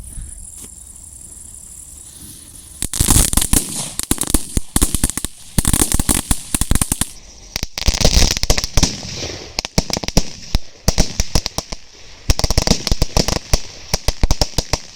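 A pile of small firecrackers going off, rapid sharp cracks in dense crackling waves that start about three seconds in and run on in several surges.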